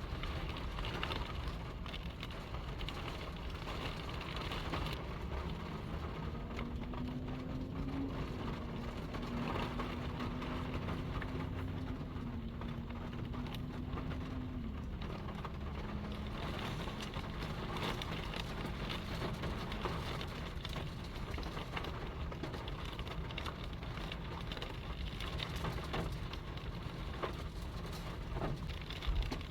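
Strong storm wind blowing steadily, with a rain-like patter. A low steady hum comes in for over ten seconds in the middle, stepping down in pitch. A short knock comes near the end.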